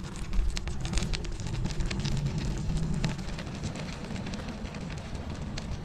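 Bicycle tyres crunching and crackling over snow, with a low wind rumble on the microphone.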